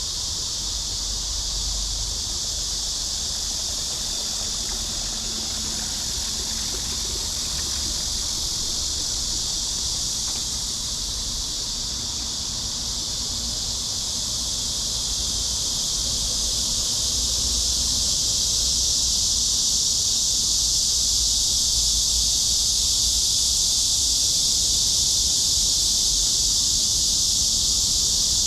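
A steady, high, buzzing chorus of insects that never breaks and grows louder about two-thirds of the way through. Under it is a low rumble of wind on the microphone.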